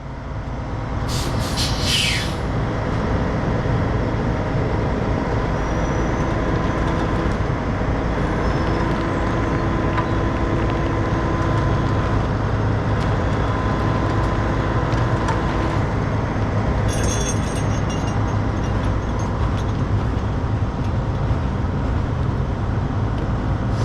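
Heavy diesel truck engines running steadily under load during a recovery pull, with a short hiss of air about a second in as the trailer brakes are released.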